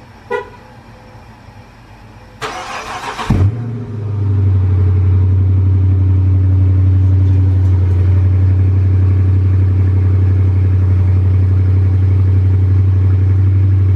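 2018 Dodge Charger R/T's 5.7-litre HEMI V8 cold-started on its stock exhaust: about a second of starter cranking two to three seconds in, then the engine catches and settles into a loud, steady idle.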